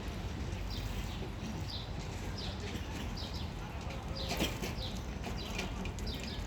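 Small birds chirping: short, high, falling notes repeated about every half second over a steady low background hum. About four and a half seconds in comes one louder, sharper sound, like a brief flutter of wings.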